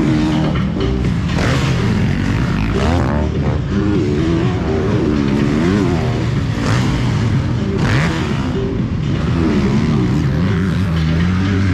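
Several motocross bikes' engines revving hard and easing off again and again as they ride the track, the pitch rising and falling repeatedly.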